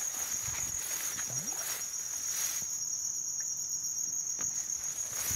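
Steady high-pitched chorus of insects chirring, with faint scattered rustles and soft knocks underneath.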